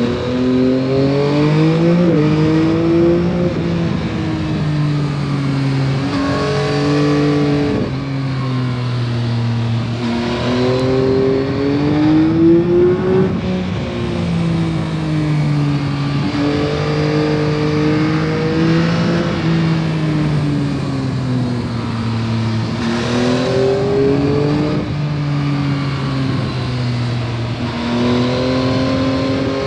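2021 Yamaha MT-09 SP's three-cylinder engine on its stock exhaust, heard from the rider's seat while riding. The engine note repeatedly climbs under acceleration and falls back as the throttle closes, with several quick breaks in pitch at gear changes, over steady wind and road noise.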